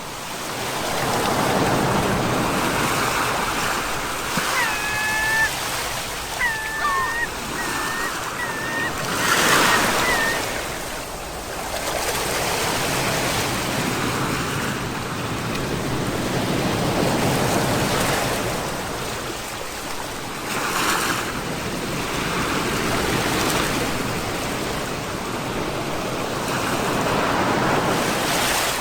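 Sea waves breaking and washing up the shore, the surf swelling and ebbing every few seconds.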